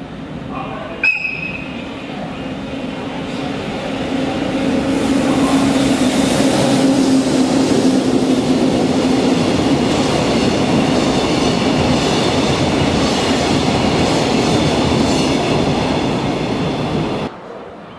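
Freight train passing: the rumble of wheels on rail builds over the first few seconds and stays loud with a steady low hum, then cuts off suddenly near the end. A short, sharp high note sounds about a second in.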